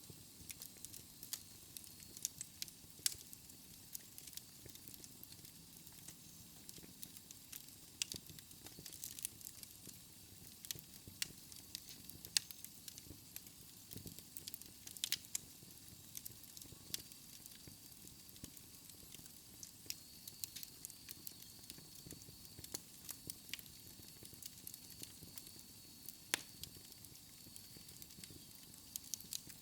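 Wood fire burning in a fireplace: irregular sharp crackles and pops over a low, steady rush of flame.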